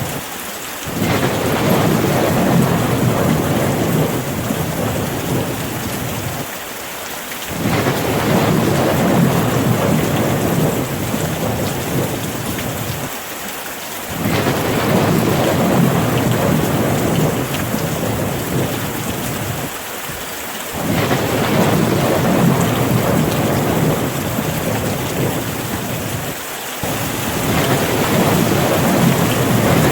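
Steady rain hiss with a deep, rolling rumble of thunder underneath. The rumble swells and fades, dropping away briefly about every six to seven seconds.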